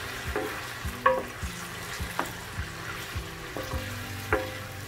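Chicken pieces frying in oil with freshly added ginger-garlic paste in a nonstick pan, a steady sizzle, while a wooden spoon stirs and knocks against the pan about twice a second.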